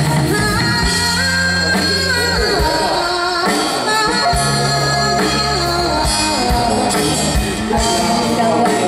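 Live band music: a Mandarin pop song played by a band, with a melody line over steady bass and drums.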